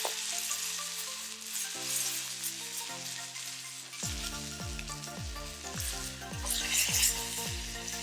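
Meat sizzling steadily in a hot iron frying pan as roast beef is seared, under electronic background music whose bass beat comes in about halfway.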